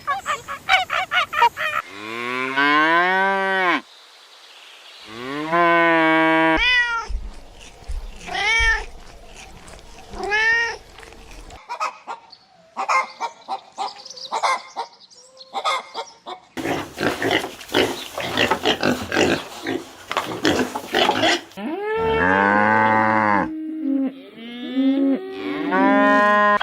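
A run of farm animal calls: cattle mooing in several long, drawn-out calls, between them shorter rising-and-falling calls and a noisy stretch of rapid calls.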